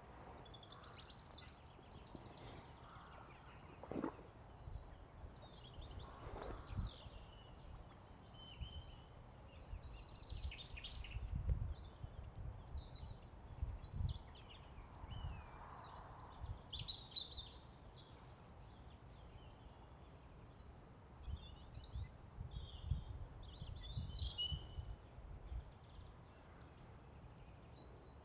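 Small birds calling and singing on and off, short chirps and trills scattered throughout, over a low, gusty rumble of wind on the microphone.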